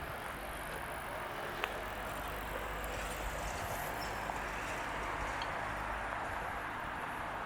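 Outdoor street ambience: a steady wash of noise with a low rumble, and a single sharp click a little over a second and a half in.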